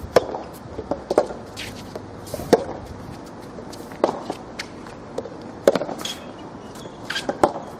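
Soft tennis rally: the rubber ball struck back and forth by rackets, six sharp hits about every one and a half seconds.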